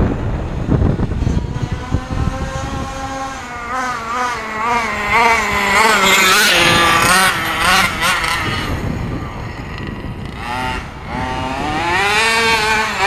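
Small two-stroke gas engine of an HPI Baja 5B RC buggy running at high revs during a full-throttle speed run. Its pitch wavers up and down, drops off around the middle, then climbs again near the end.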